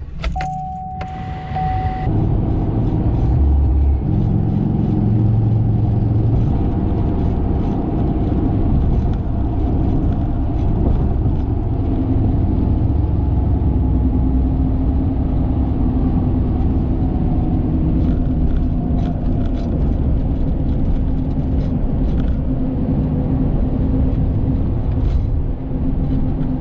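Car engine and road noise heard from inside the cabin while driving, a steady low rumble whose pitch shifts slowly with speed. A brief steady electronic tone sounds in the first two seconds.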